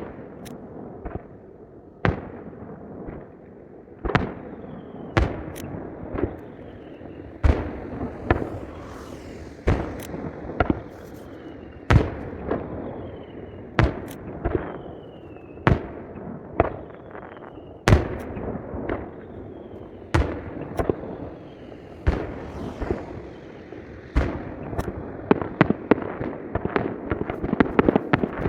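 Aerial fireworks display, played at three times normal speed: sharp shell bursts every second or two with crackle between them, and a few faint falling whistles. Near the end the bursts come thick and fast.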